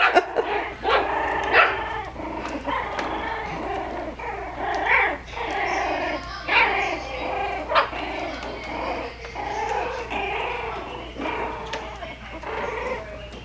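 A litter of four-week-old Coton de Tulear puppies vocalising as they play: short high yips and little barks, several puppies overlapping throughout.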